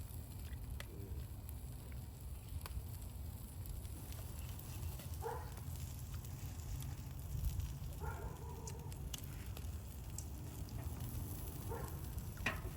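Firepit fire crackling with scattered small pops over a steady low rumble. A few faint, brief voice-like sounds come in between.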